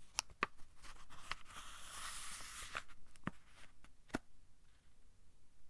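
Thin-paper book pages being turned by hand: a papery rustle in the middle, with several crisp snaps and flicks of the pages before and after.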